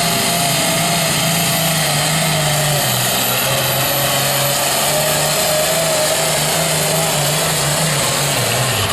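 Diesel pulling tractor under full load dragging the weight sled, engine running hard and steady with a thin high whistle above it. Near the end the engine note sags as the tractor bogs down and the pull ends.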